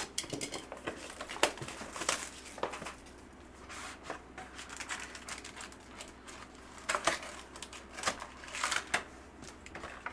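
Trading-card pack being opened by hand: the wrapper crinkling and tearing, with scattered sharp rustles and clicks of card handling.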